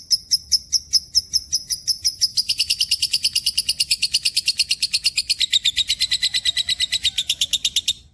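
A pet bird singing a long run of high, evenly repeated chirps, about five a second. A little over two seconds in they quicken into a faster trill of about eight or nine notes a second, which stops abruptly near the end.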